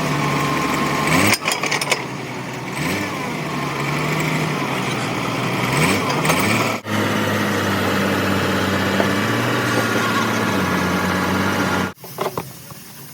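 A heavy diesel engine running and changing speed, with its pitch rising and falling, broken by sudden cuts between takes.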